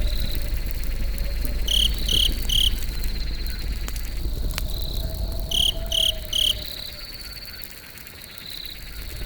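Crickets trilling steadily at a high pitch, with a sharper three-note chirp heard twice, about four seconds apart, over a low rumble that eases off near the end.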